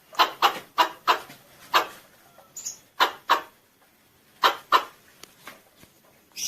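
Squirrel (tupai) calling: about a dozen short, sharp chip calls, mostly in quick pairs and threes with short pauses between the groups.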